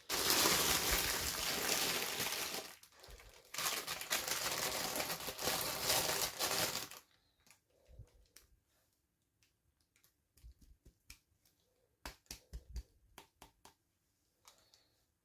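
Plastic packaging crinkling and being torn open for about seven seconds, with a brief pause near the three-second mark, then scattered small clicks and taps.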